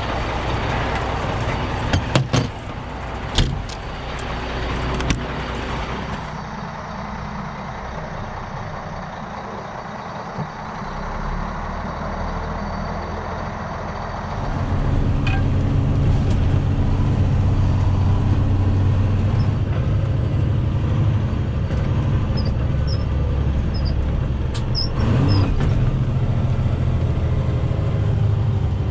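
Big Red, a semi truck hauling corn, with its diesel engine running, and a few sharp knocks in the first several seconds. About halfway through the engine note gets clearly louder and stays up, as when the truck pulls away under load.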